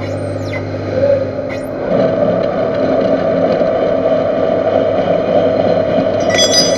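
Metal lathe running with a steady hum. About two seconds in, a louder, rougher cutting noise starts and keeps going as the tool works the weld-built-up spindle tube.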